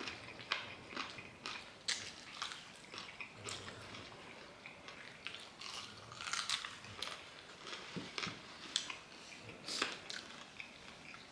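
Close-miked chewing and biting into crispy fried chicken, with many irregular crunches and wet mouth clicks.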